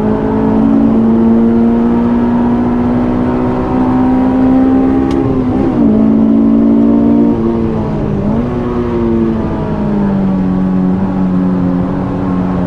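Honda S2000's 2.2-litre F22C VTEC inline-four running hard at high revs on track, heard from inside the cabin, through its J's Racing 70RS exhaust and K&N intake. The engine note climbs slowly, dips briefly twice around the middle, then settles a little lower.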